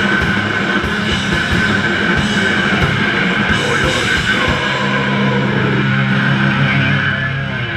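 Hardcore punk band playing live: distorted guitars, bass and drums with crashing cymbals, then the band settles onto a held, ringing chord about five seconds in as the drums thin out.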